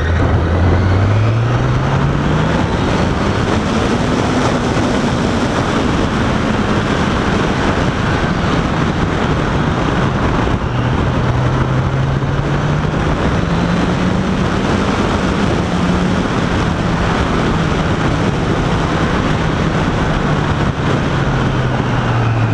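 Motorcycle engine under way, heard from the rider's seat. Its pitch climbs over the first few seconds, drops back, climbs again about midway, and falls off near the end as the bike speeds up and eases off through traffic, over a steady rush of wind and road noise.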